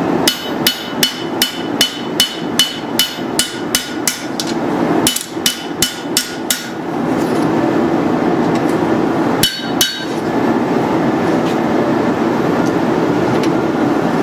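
Hand hammer striking steel on an anvil in quick ringing blows, about three a second, in two runs over the first seven seconds. After that, a steady rushing noise continues, with a pair of strikes near the middle.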